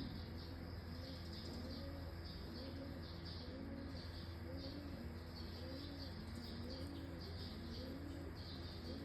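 Faint bird calls in the background: a low, arched cooing call repeated over and over, with higher chirping behind it, over a steady low hum.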